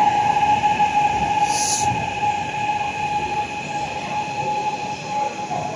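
Metro train running, a steady rumble with a high whine held on one pitch; a short hiss sounds about a second and a half in.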